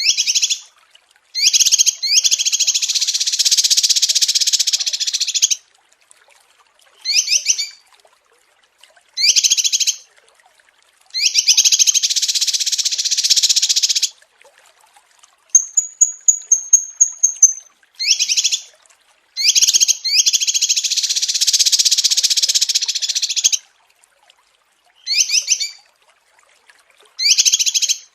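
Recorded song of small songbirds played as a masteran training loop. A rapid high trill is followed by a few short sharp notes and long, dense warbling phrases of about three seconds each, and the same sequence repeats about every fourteen seconds.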